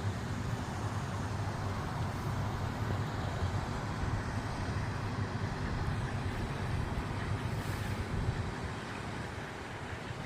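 Steady low rumble of distant road traffic, an even drone with no distinct events.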